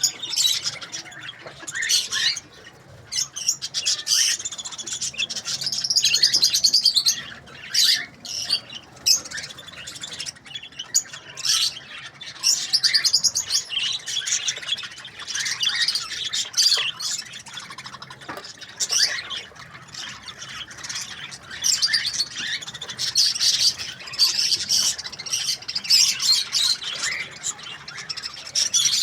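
Budgerigars chattering, chirping and squawking without pause, a busy mix of warbling and sharp high-pitched calls.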